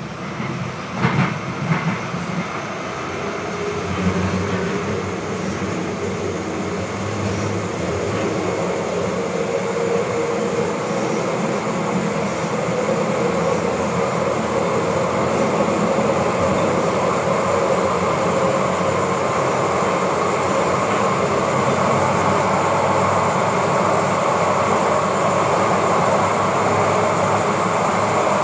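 Interior of a Siemens-Duewag U2 light rail car running on the track, the rolling and motor noise growing steadily louder. A few sharp knocks come about a second in.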